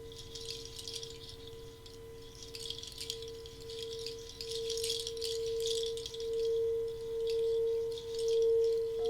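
A singing bowl holds one steady tone that grows louder and pulses slowly through the second half. A rattle shakes over it in soft bursts.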